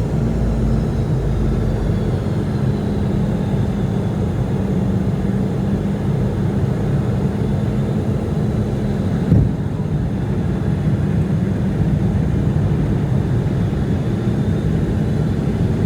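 Jet airliner engines running on approach: a steady low rumble with a faint high whine that slides a little lower in the first few seconds. A brief knock about nine seconds in.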